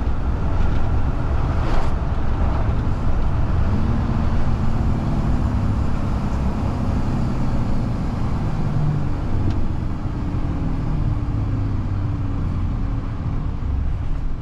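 Volvo FE 320 lorry's diesel engine and road noise heard from inside the cab while driving, a steady low rumble; about four seconds in an engine tone comes through and slowly falls in pitch.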